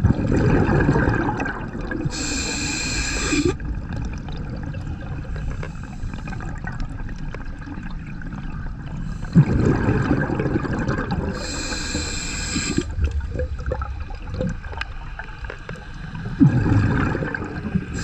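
Scuba diver breathing through a regulator underwater: exhaled bubbles burble out, and between them comes a short, high hiss of an inhale through the regulator. The bubbles come three times, several seconds apart.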